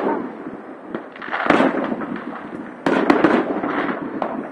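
Aerial fireworks shells bursting in a series of sharp bangs, several close together about three seconds in, with crackling between them.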